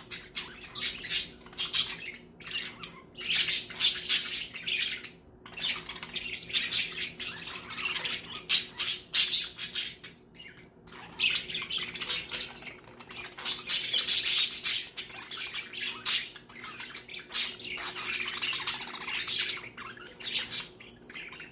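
Budgerigars chattering and squawking almost without pause in dense, harsh bursts of short calls as they squabble with each other.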